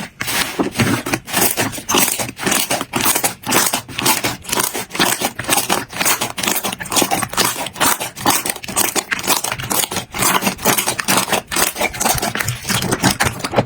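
Slime being pressed and worked by hand, giving a rapid, uneven run of crackling clicks and pops, several a second.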